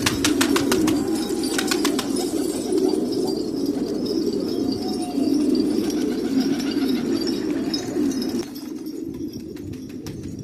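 A flock of domestic pigeons cooing together in a continuous low murmur, with a quick run of clicks near the start. The cooing gets quieter about eight seconds in.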